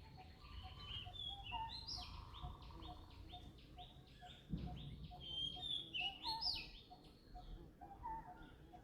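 Several birds chirping and calling over one another, with a fast run of short repeated notes a couple of seconds in, over a faint low rumble.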